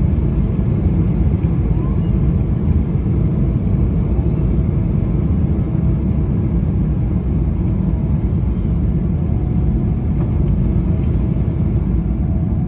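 Steady low rumble of a Boeing 777-300ER's GE90-115B jet engines and airflow, with a faint steady whine above it.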